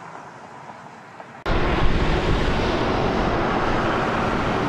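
Low, quiet background, then a loud steady rumbling noise cuts in abruptly about a second and a half in and holds steady.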